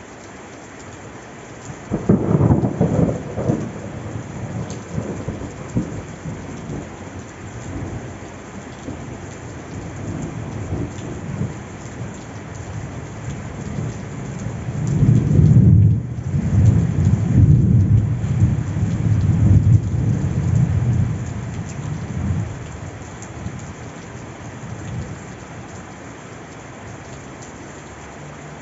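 Steady rain with two rolls of thunder. One rumble starts suddenly about two seconds in and fades over several seconds; a second, longer and louder rumble comes about halfway through and dies away a few seconds later.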